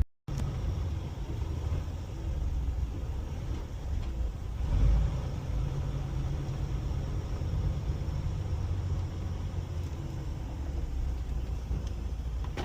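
Low, steady rumble of a vehicle running on the road, swelling briefly about five seconds in.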